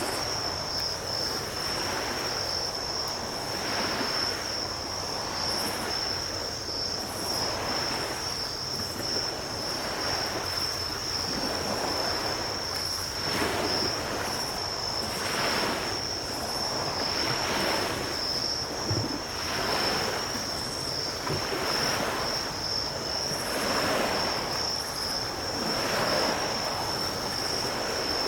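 Small ocean waves breaking and washing up on a beach, swelling about every two seconds, under a steady high-pitched insect trill.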